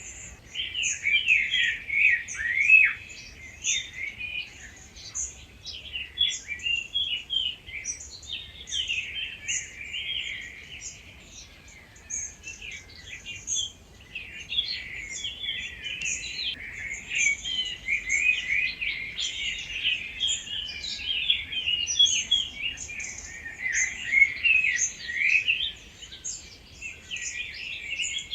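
Dawn chorus: many wild birds singing at once, a dense, continuous overlap of songs and chirps, thinning briefly around the middle.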